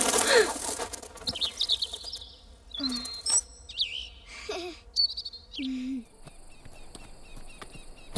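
A small bird chirping and twittering in several short bursts of high calls. It follows a sudden loud rush with a falling tone at the very start.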